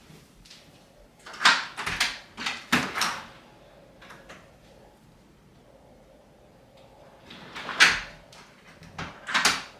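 A door being opened and later closed: a cluster of clatters and knocks from the handle and latch about a second in, then another cluster near the end.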